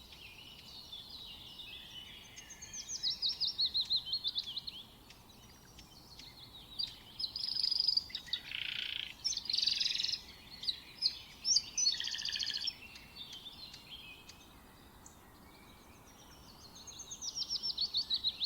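A songbird singing. A fast run of rapidly repeated, falling notes comes about three seconds in and again near the end, with varied chirps and warbled phrases in between.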